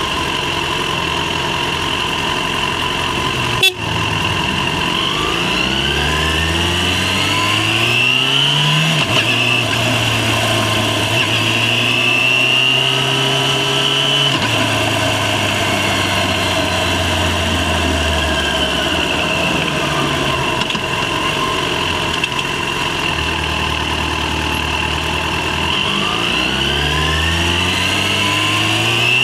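Yamaha FZ6 motorcycle's inline-four engine pulling through the gears, its pitch rising and dropping back at each shift. It then holds steady at cruising speed, eases off, and accelerates again near the end. There is one sharp click about four seconds in.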